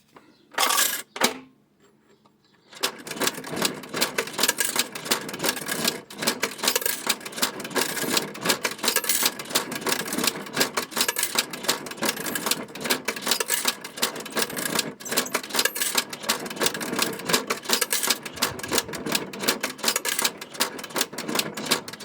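Pennies clinking into a Johnson Model D fare box. About three seconds in, its motor-driven coin mechanism starts a fast, continuous clatter of rapid clicks as it takes in and counts the coins.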